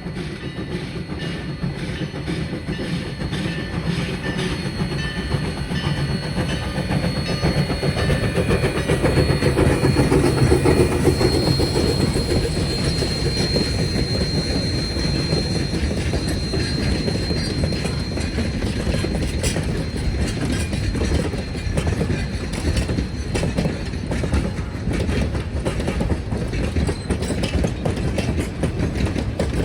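Narrow-gauge train rolling past, its wheels clicking over the rail joints; the sound swells to its loudest about ten seconds in, then eases off.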